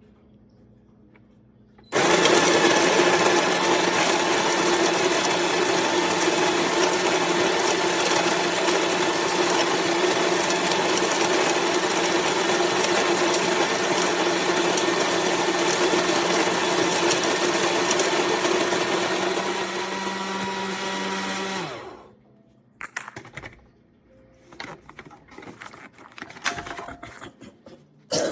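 Ollygrin electric conical burr coffee grinder running. It starts abruptly about two seconds in, runs steadily for about twenty seconds, then its motor winds down and stops. A few faint scattered small sounds follow.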